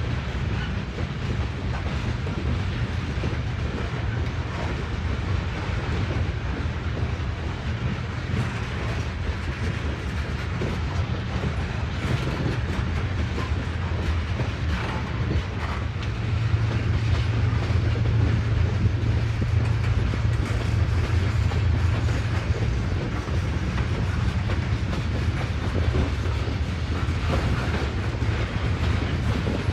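A train rolling past steadily, with a low rumble and wheels clicking over the rail joints; it grows a little louder about halfway through.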